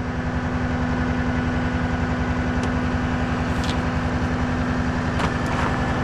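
Tow truck's engine idling steadily with an even hum, with a few faint light clicks over it.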